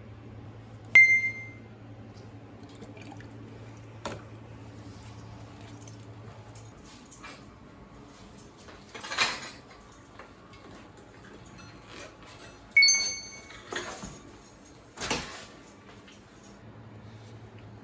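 Metal objects clinking: two sharp ringing clinks, one about a second in and one near thirteen seconds, with handling and rustling noises between them. A low steady hum in the background stops about a third of the way through.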